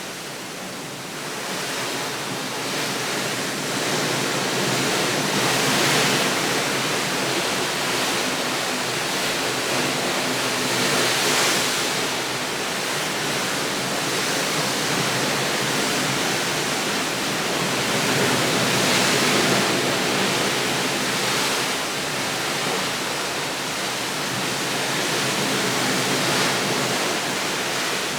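A steady, full rushing hiss that swells and eases slowly every few seconds.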